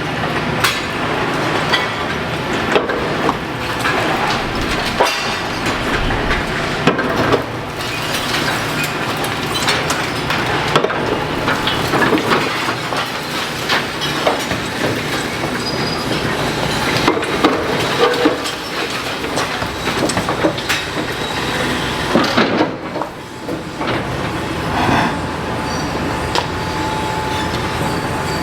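Demolition excavator at work: its diesel engine runs steadily under many irregular clanks and knocks of steel and breaking masonry, with a few short metallic squeals.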